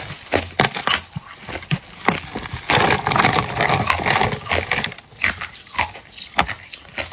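Hard clear ice being bitten and chewed close to the microphone: a string of sharp crunches, with a denser stretch of grinding crunching about three to four seconds in.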